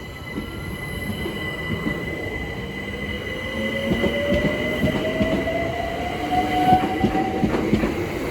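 London Overground Class 378 electric train pulling away and accelerating. Its traction motor whine rises steadily in pitch until near the end, over a steady high squeal and rumbling wheel noise that grow louder.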